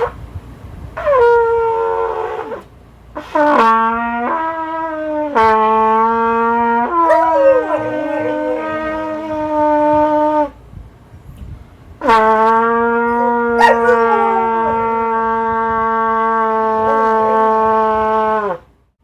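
Trumpet played in a series of long held notes, the last held for about six seconds before cutting off near the end, with a dog howling along.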